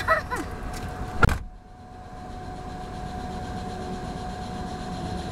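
A car door shutting with one sharp thump about a second in; the outside hiss cuts off with it, leaving a steady in-car hum.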